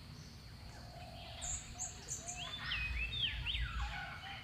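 A bird chirping in the background: a few short high chirps about a second and a half in, followed by several quick gliding whistled notes.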